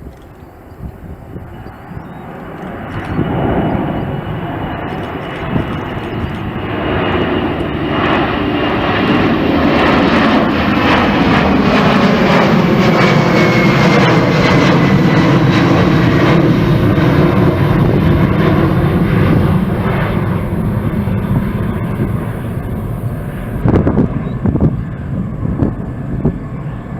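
Jet airliner's engines passing close by: the roar builds, peaks in the middle with a high whine and lower tones that glide downward as the plane goes past, then eases off.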